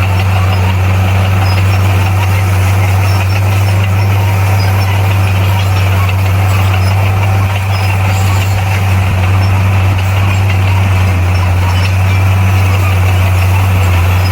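Diesel engine of heavy earthmoving machinery running steadily at an even speed, a loud, unchanging low drone.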